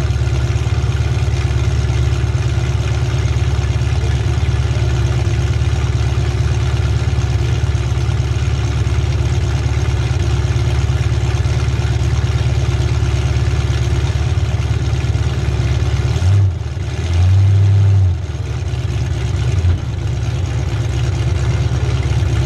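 Demolition derby car's engine idling with a steady low rumble, heard from inside the stripped-out cabin. It grows louder twice in short spells a little past the middle.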